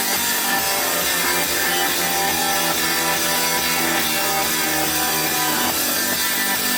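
Live indie rock band playing an instrumental passage with no vocals, guitar to the fore over the band, steady and loud.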